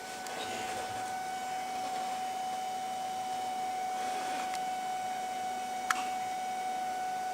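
Homemade mechanical Stirling engine running, a steady whine over a light mechanical hiss, with a single click about six seconds in.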